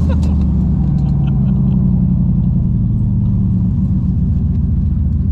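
Turbocharged LS V8 running steadily at low rpm, a low, even engine drone.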